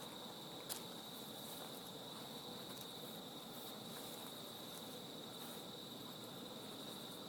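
Crickets chirring: a faint, steady high-pitched trill with no break, and a single small click just under a second in.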